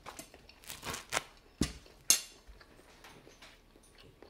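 Chewing a mouthful of jajangmyeon noodles, heard up close: a few short, sharp mouth clicks and smacks, the loudest about two seconds in.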